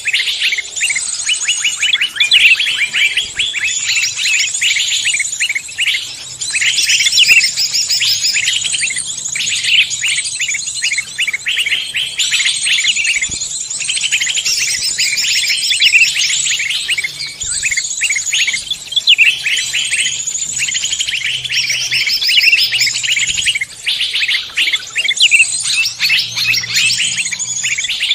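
Dense chorus of many songbirds chirping and trilling over one another without a pause, with high, rapid twittering phrases.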